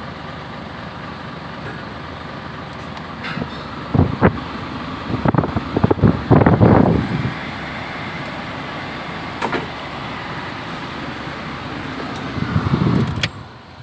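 Truck engine running steadily, with several knocks and clunks of handling partway through. Near the end the engine cuts off abruptly, shut off with the key.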